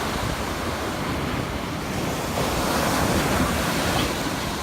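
Ocean surf washing onto the beach, with wind buffeting the microphone; the wash swells about halfway through.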